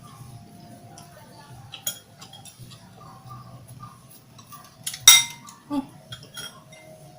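Light clicks and taps of tableware during eating, with one sharp, loud clink about five seconds in and a smaller one just after.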